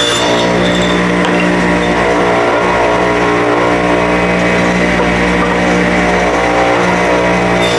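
Table saw running steadily at full speed, ripping scrap fence-picket boards into strips about 1.25 inches wide.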